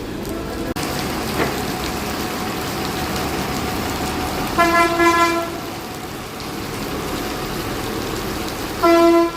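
Steady rain falling, with a vehicle horn honking in a few short blasts about halfway through and once more near the end.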